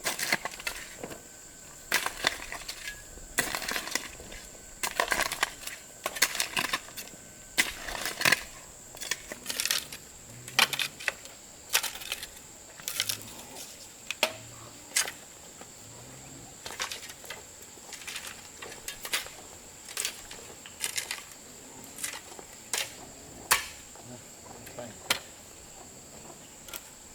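Irregular sharp strokes, about one or two a second, over a steady high drone of insects.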